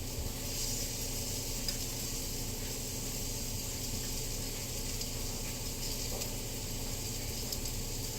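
Onions frying in a hot pan, sizzling steadily.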